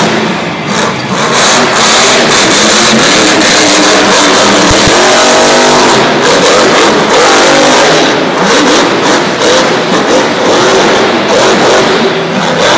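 Son-uva Digger monster truck's supercharged V8 revving hard, very loud, its pitch climbing and dropping repeatedly through the middle seconds.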